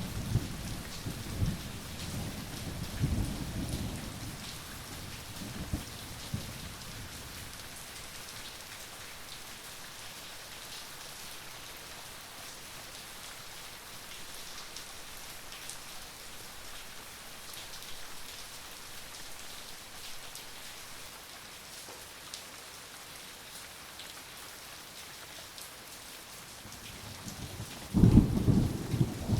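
Steady rain hissing down in a thunderstorm. Thunder rumbles through the first few seconds and fades, then a loud clap of thunder breaks out near the end.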